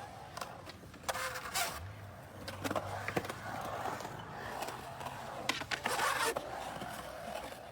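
Hard wheels rolling over pavement, a steady rough rumble broken by a few sharp clacks and scrapes, with louder spells about a second in and again about five and a half seconds in.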